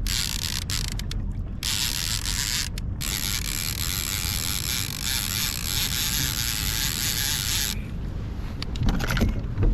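Fishing reel ratcheting in a fast run of clicks while a hooked coho salmon is being played.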